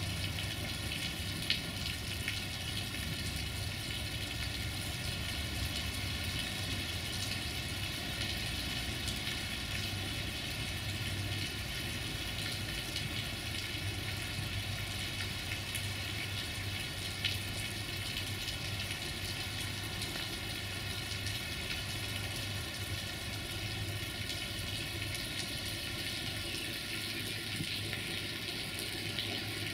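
Steady rain hiss over a railway yard, with a low diesel-engine hum underneath. A sharp click comes about a second and a half in, and another near the middle.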